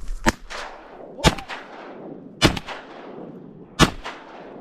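Four shotgun shots fired at ducks, roughly a second or more apart, each a sharp blast with a short trailing echo.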